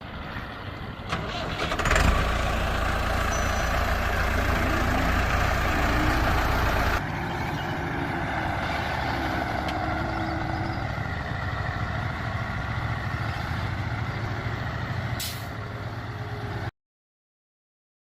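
Heavy truck engine sound running with a steady drone and hiss. It changes abruptly about seven seconds in, has a sharp click near the end, and cuts off suddenly.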